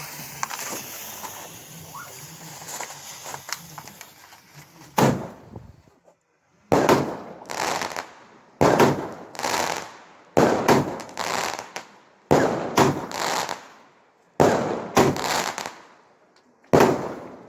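Firework going off: about five seconds of hissing and crackling, then a rapid run of loud bangs, one or two a second, each echoing away, as the shots of a barrage break overhead.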